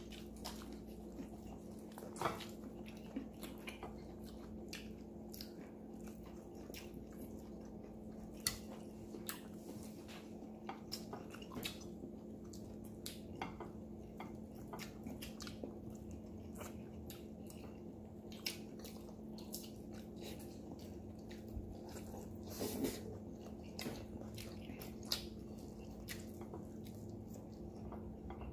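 Close-up mouth sounds of eating roasted Cornish hen by hand: chewing, lip smacking and wet clicks scattered through, a few of them sharper. Beneath them runs a steady low hum.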